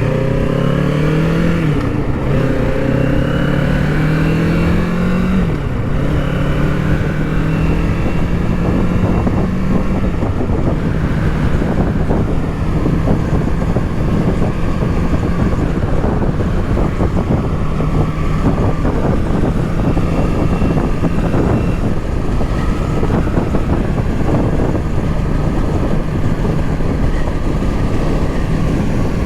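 Kawasaki Z650's parallel-twin engine pulling hard, its pitch climbing and dropping back at each of a few upshifts in the first six seconds, then holding a steady cruise. Heavy wind rushes over the microphone throughout.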